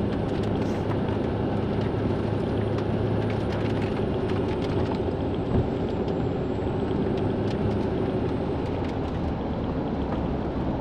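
Steady road and engine noise inside a moving car's cabin, with scattered light ticks and one knock about five and a half seconds in.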